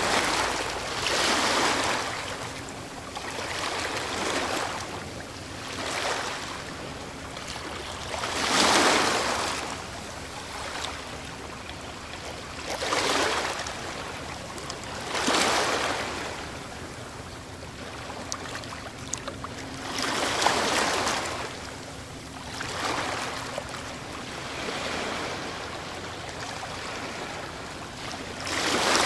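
Ocean waves breaking on a shore: the surf swells and washes in again every few seconds, with the biggest breakers about a third of the way in, halfway and near the end.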